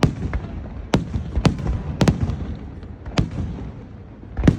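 Fireworks bursting in a rapid, irregular volley: about seven sharp bangs over a continuous low rumble of further explosions.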